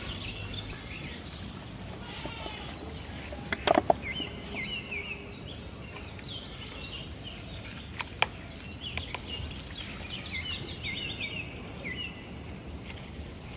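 Small birds chirping in quick, repeated short notes over a faint steady outdoor background, with a few sharp clicks about four seconds in and again near eight seconds.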